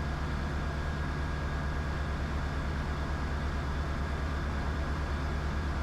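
Diamond DA20 light aircraft's piston engine and propeller running steadily in flight, a low even drone with a fast regular beat.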